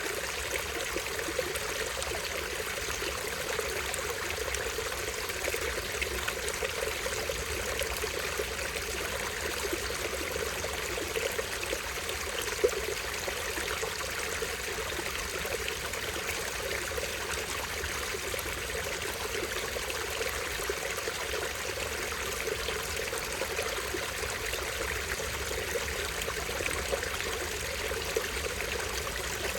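Small stream running steadily, water trickling and splashing over a tiny waterfall. One sharp, brief click stands out about halfway through.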